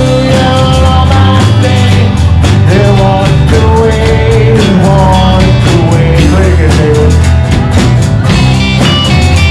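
Live worship band playing loudly in a rock style, with guitar, a steady beat and bass, while voices sing long held melody notes.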